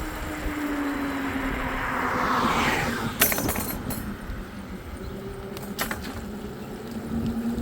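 A vehicle's motor running with a steady whine that sags slightly in pitch, under a rushing swell that builds and fades about two and a half seconds in. Sharp rattling clicks come around three seconds in and again near six seconds.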